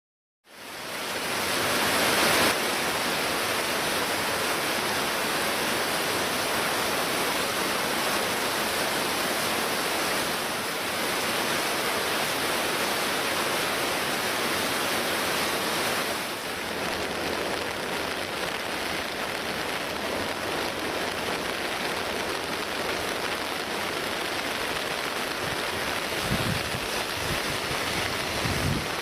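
Steady rushing noise of a typhoon-swollen river with rain, fading in at the start and dropping slightly about halfway through. A few low buffets come near the end.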